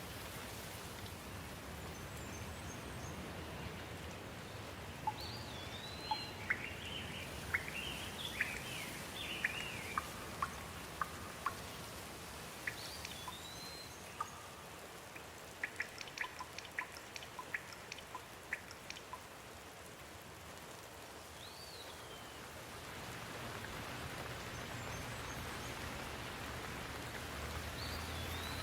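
Steady rain with scattered sharp drip ticks, and birds calling over it: a repeated rising-and-falling whistle and bursts of quick chirps. The rain eases about two-thirds of the way through, then picks up again near the end.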